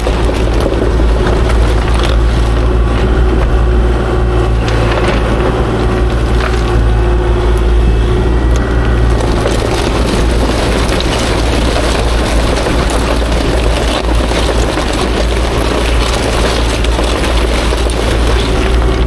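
Kubota KX040-4 excavator's diesel engine running steadily under load, with scattered knocks and clatter of rock being moved.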